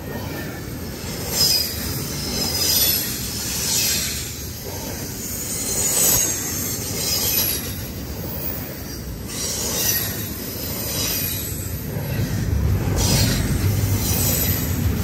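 CSX double-stack intermodal freight train rolling past at close range: steel wheels running over the rails, with a loud swell each time a set of wheels goes by and a high-pitched wheel squeal coming and going over the rumble. The low rumble grows heavier near the end.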